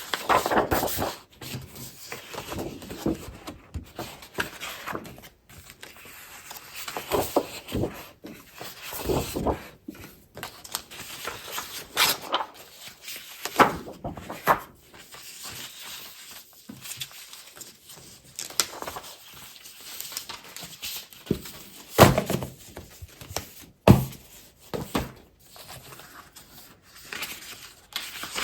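Paper and plastic packaging of scrapbooking supplies being handled: irregular rustling and crinkling, with a few sharp taps and clicks, the loudest about two-thirds of the way through.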